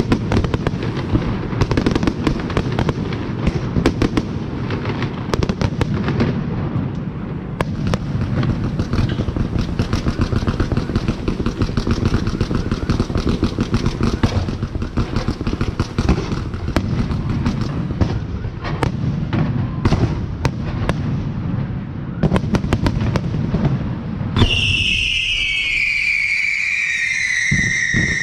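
Fireworks display going off in a dense, continuous barrage of crackling and popping bursts over a low rumble. Near the end a loud whistle falls slowly in pitch for about four seconds.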